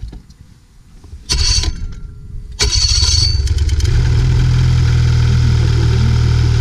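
Snowmobile engine being started after a new CVT drive belt is fitted. A first short burst comes about a second in, then it catches at the second try and settles into a steady idle.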